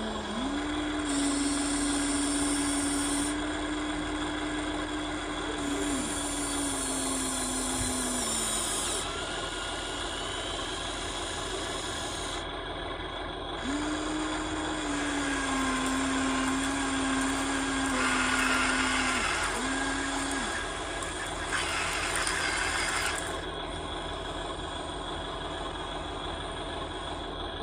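Small electric motors of a radio-controlled model excavator whining as it works, in two runs of several seconds each, the pitch stepping down a little within each run, with a hiss that comes and goes.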